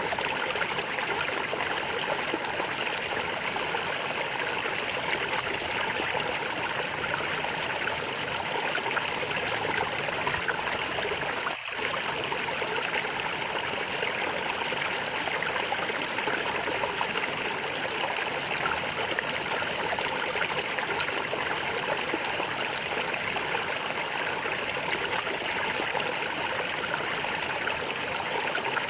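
A small stream gurgling and trickling steadily, with a momentary dip in the sound about twelve seconds in.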